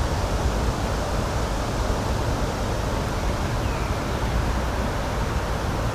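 Steady, even rushing noise of outdoor nature ambience, heaviest in the low end, with a faint short chirp about four seconds in.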